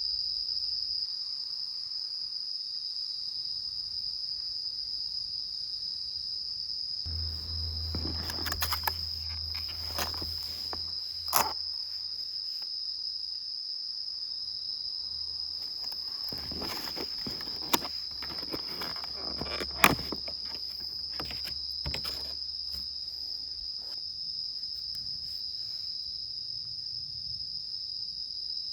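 Steady high-pitched chirring of autumn insects, with scattered clicks and knocks of handling throughout. A low hum joins about a quarter of the way in and fades out later.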